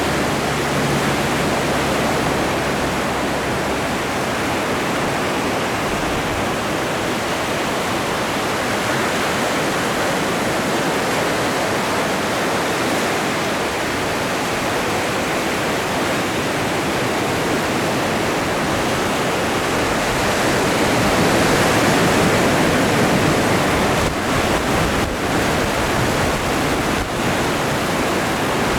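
Atlantic Ocean waves, a steady rush of surf that swells louder about two-thirds of the way through.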